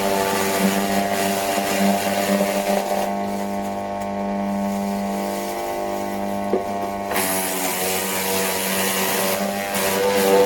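Forest Master FM4DDE electric wood chipper running with a steady motor hum. A harsher rattling noise over the hum drops away for a few seconds in the middle and then comes back.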